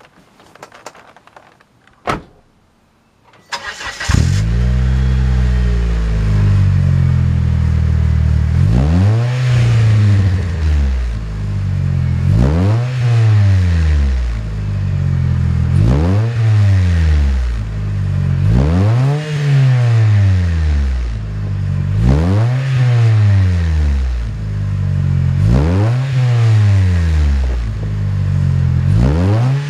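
A sharp click, then the 1999 Mitsubishi Eclipse's engine starts about four seconds in and settles into a steady idle. It is then revved and let fall back over and over, about once every three seconds, through its aftermarket Magnaflow exhaust.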